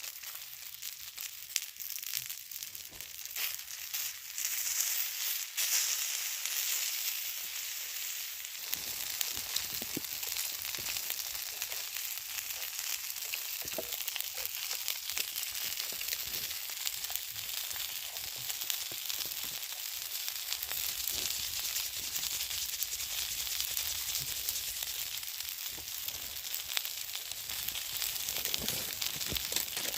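Food sizzling as it cooks over a campfire: a steady hiss dotted with many small crackles.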